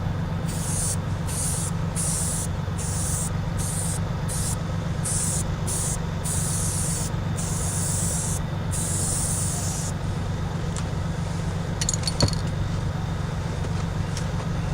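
Aerosol can of spray adhesive hissing in a rapid series of short bursts, a dozen or so, as it is sprayed onto a car's headliner. It stops about ten seconds in, leaving a steady low rumble and a single click near the end.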